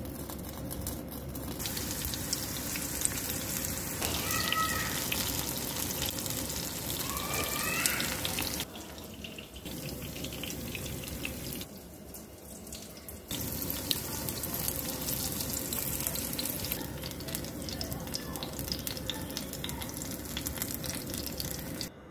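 Pakoda batter deep-frying in hot oil: a steady sizzle with fine crackling. It drops away and returns a few times, about a third and about half way through.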